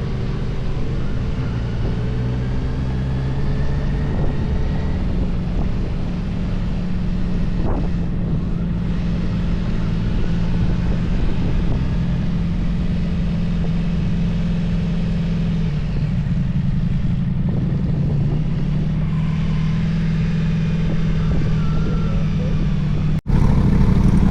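Motorcycle engine running at a steady cruising pace, heard from on the bike with road and wind noise. The sound drops out abruptly near the end, then comes back louder.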